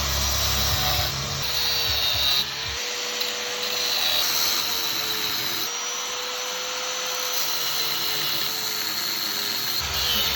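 Electric power tool running steadily on the exhaust being modified, its motor pitch wavering slightly under load. The sound changes abruptly about three seconds in and again near the end.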